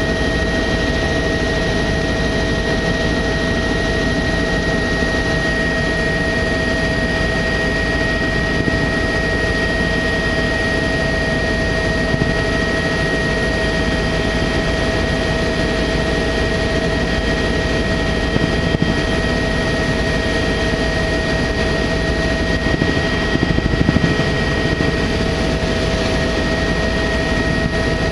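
Tour helicopter in steady flight heard from on board: an even engine and rotor drone with two constant high whining tones over it.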